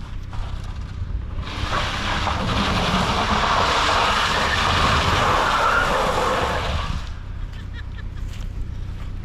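A car's tyres rushing over wet ground, a long hiss that swells about a second and a half in and dies away about seven seconds in, over a low engine hum.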